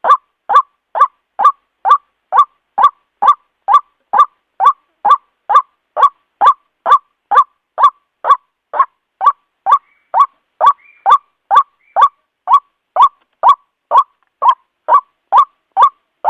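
White-breasted waterhen repeating its loud call, short evenly spaced notes at about two a second.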